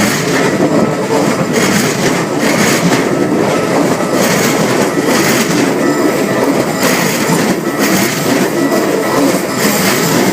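Keikyu electric train passing close by over a level crossing, its wheels clattering over the rail joints in a steady rhythm of about one to two clacks a second.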